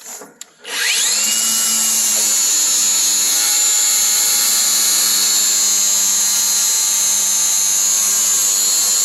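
Cordless angle grinder spinning up about a second in with a rising whine, then running steadily at a high pitch while grinding the head off an old bed bolt.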